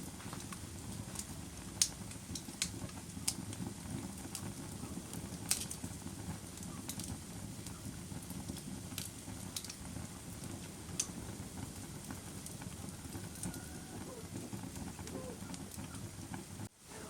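Fire crackling: a steady low rush with sharp pops scattered irregularly throughout. The sound drops out briefly near the end, then resumes.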